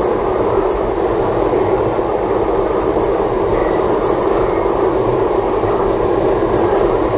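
Steady road noise from tyres and wind, heard inside the cabin of a Toyota Tank compact minivan driving on the highway.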